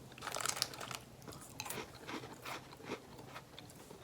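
A person chewing small crunchy fish-shaped crackers, a crisp crunch about twice a second.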